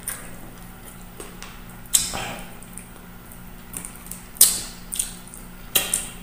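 Close-miked mukbang eating sounds: a man chewing chicken feet adobo and rice, with about five sharp wet smacks and clicks of lips and mouth at irregular intervals.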